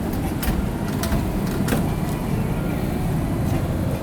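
Motor vehicle running with a steady low rumble, with a few light clicks over it.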